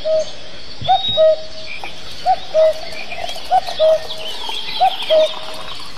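Birdsong: one bird repeats a two-note call, a short higher note then a longer lower one, about every 1.3 seconds. Other small birds chirp faintly behind it over a steady hiss.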